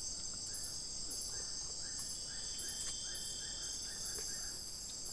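Forest insects, crickets among them, in a steady high-pitched chorus. Through the middle a fainter run of about a dozen short repeated chirps, roughly two a second, comes from another calling animal.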